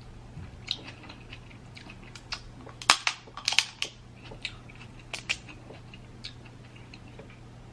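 Snow crab leg shells cracking and snapping close to the microphone: a string of sharp, separate cracks, the loudest about three seconds in.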